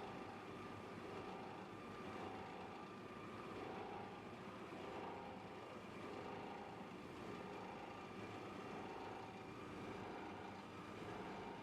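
Plastic film washing line machinery running steadily, with a whirring tone that swells about every second and a quarter as the machine turns.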